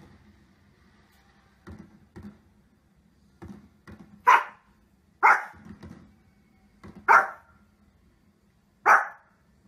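A small fluffy dog barking four times, sharp single barks a second or two apart, starting about four seconds in.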